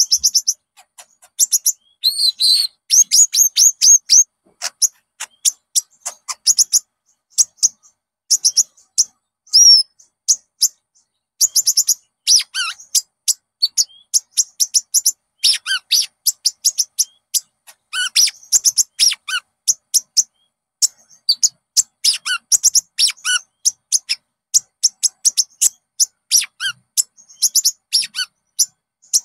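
Konin songbird singing: rapid runs of high chirps and trills in bursts with short pauses. It is a recorded konin song, played as a lure to set another konin singing.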